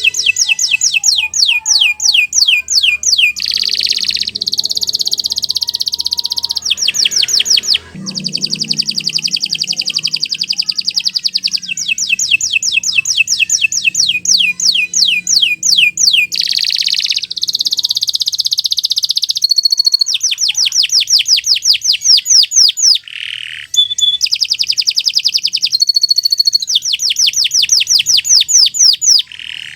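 Domestic canary singing a long, unbroken song of rapid repeated trills, changing from one trilled phrase to the next every second or two, with a few held whistled notes between them.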